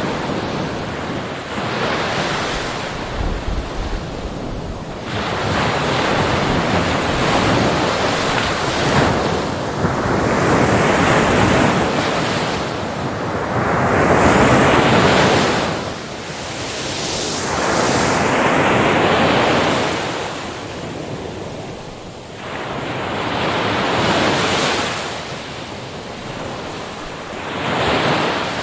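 Ocean surf: waves breaking and washing up the beach in repeated swells that rise and fall every few seconds, with wind on the microphone.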